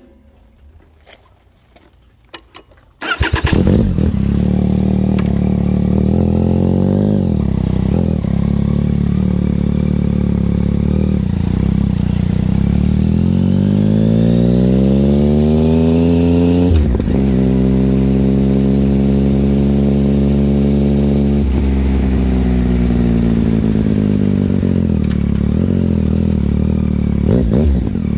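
Yamaha XSR900 inline-three engine through a Kelpi aftermarket exhaust, starting about three seconds in after a few faint clicks. It then runs and revs up and down, with one long steady rise in pitch in the middle, a sudden break, and a slow fall.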